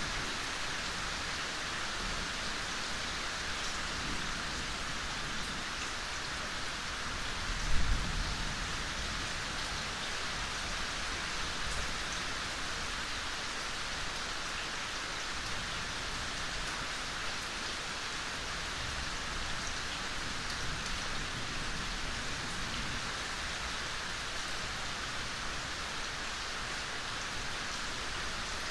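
Steady gentle rain falling in a forest: an even hiss of many drops. A single brief low thump sounds about eight seconds in.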